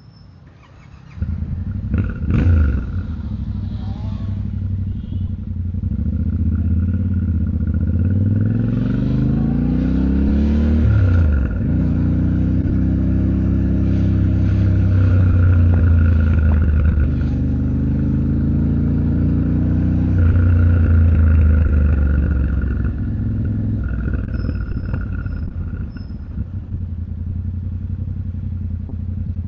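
Yamaha Ténéré 700's 689 cc parallel-twin engine pulling through traffic, with road and wind noise. The revs climb from about six seconds in, drop with a gear change near eleven seconds, hold steady, climb again around eighteen to twenty-one seconds, then ease off.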